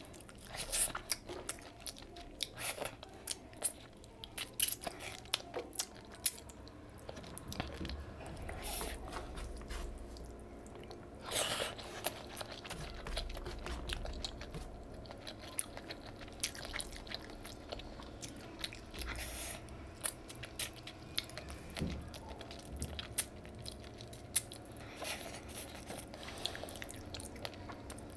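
Close-miked eating sounds: chewing with frequent sharp mouth clicks and lip smacks as a person eats rice and whole fish curry by hand.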